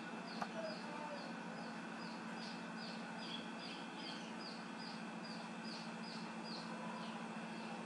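A small bird chirping over and over in the background: short, high, falling chirps, about two or three a second, over a steady low hum.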